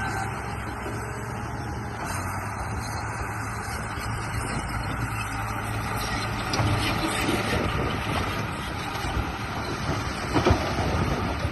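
Remote-control bulldozer running: a steady mechanical drone with a low hum, with a few sharp knocks about ten seconds in.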